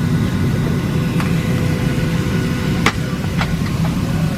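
Steady low rumble and hum of a parked Boeing 737-700's cabin air conditioning, with a few faint steady tones above it. A few sharp clicks or knocks come through, the clearest about three seconds in.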